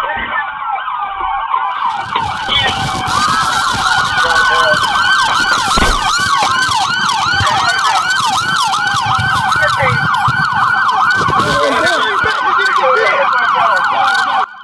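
Several police car sirens sounding at once, a slow wail overlapping a fast, rapidly repeating yelp, over engine and road noise.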